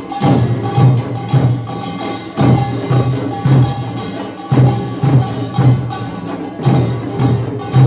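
Korean nongak percussion ensemble playing: drums beating a driving rhythm with clanging small gongs and ringing tones over them, the pattern starting anew about every two seconds.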